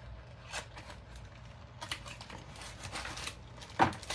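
Packaging being handled while a CPU cooler is unboxed: scattered light clicks and rustles of cardboard and plastic, with one louder sharp sound near the end, over a steady low hum.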